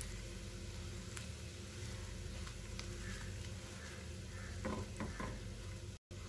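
Bread cubes sizzling as they fry in ghee in a nonstick kadai, with the soft scrape of a silicone spatula turning them now and then. The sound cuts out for an instant near the end.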